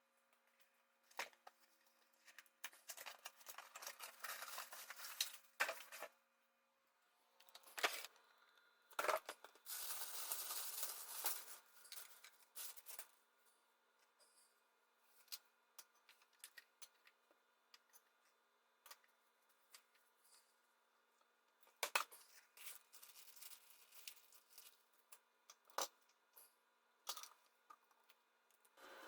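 Faint, scattered clicks and light knocks, with a few short stretches of rustling or scraping, as of parts, tools or packaging being handled.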